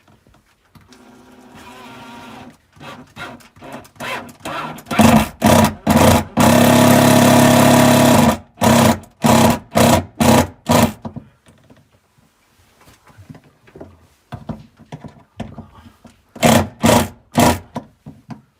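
Handheld electric power driver run in short trigger bursts, with one longer run of about two seconds in the middle and a few more short bursts near the end, as screws are driven or removed while the toilet ventilation fan is swapped out.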